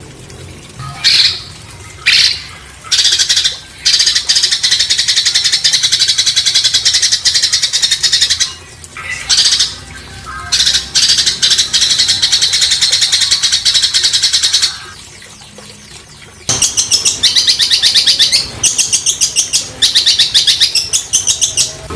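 A songbird singing coarse rapid-fire bursts (tembakan kasar). A few short loud bursts lead into two long rattling runs of rapidly repeated notes, and near the end comes a fast series of sharp, pulsed notes.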